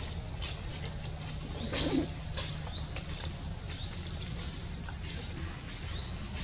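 A bird repeating a short high rising chirp about once a second, over rustling of branches and leaves as macaques climb in a tree, with a louder rustle and thump about two seconds in.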